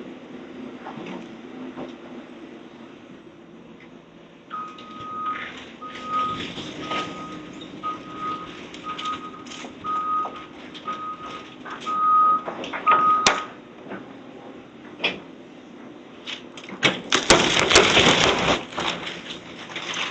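Heavy equipment's backup alarm beeping about once a second, around ten times, over its running engine with knocks and clanks. Near the end comes a loud rattling crash of debris.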